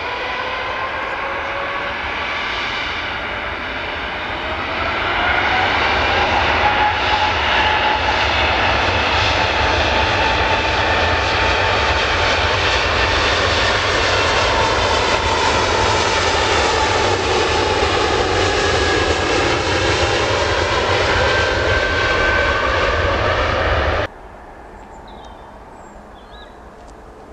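Engines of a passing aircraft: a loud rushing noise with several whining tones that glide slowly in pitch. It grows louder about five seconds in and cuts off abruptly near the end.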